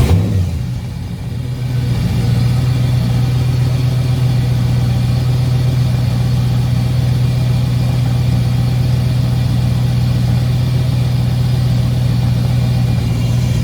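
Turbocharged car engine starting up and, after a brief dip, settling within about two seconds into a steady idle with an even low hum. It is running with its oil system freshly primed and oil pressure restored.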